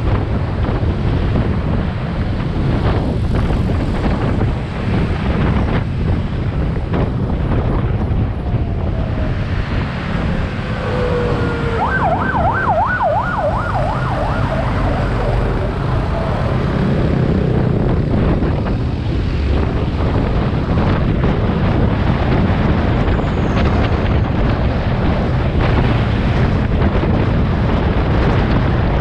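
Motorcycle riding in traffic: steady wind noise on the microphone over engine and road rumble. About twelve seconds in, a fast warbling siren sounds for about three seconds.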